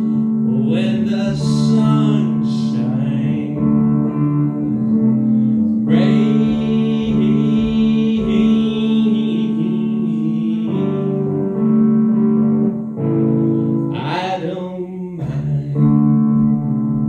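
Pedal steel guitar playing an instrumental passage: a melody of sliding, bending notes with vibrato over held, sustained chords.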